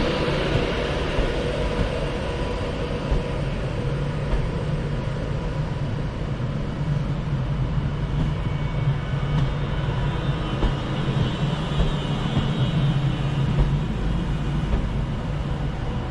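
Passenger train pulling slowly out of the platform: a steady low rumble with higher whining tones over it, which grow stronger about halfway through.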